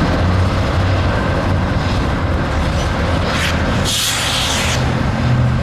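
Freight train rolling past with a steady low rumble and hum. There is a brief hiss about three and a half seconds in, and the low hum shifts to a higher pitch near the end.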